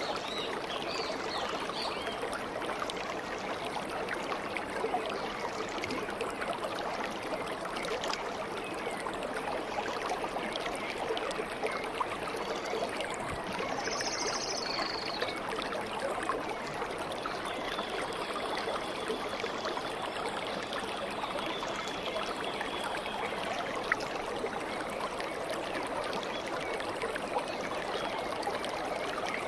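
Stream water flowing and trickling steadily, with a brief high bird call about halfway through.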